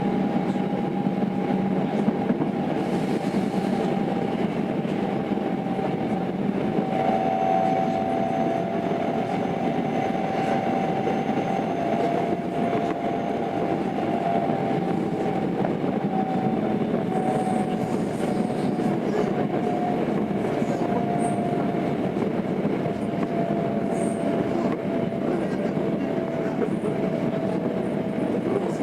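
Cabin running sound of a Tokyo Metro 02 series Marunouchi Line train with IGBT inverter control, cruising between stations. Steady rumble of wheels on rail, with a thin high tone held throughout and slowly sinking in pitch.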